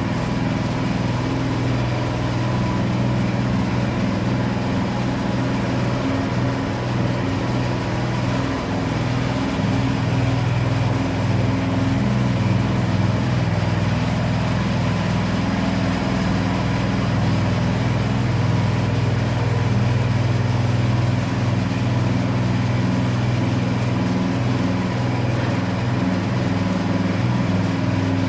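Small petrol engine of a power trowel running steadily at constant speed as it smooths a mortar floor screed.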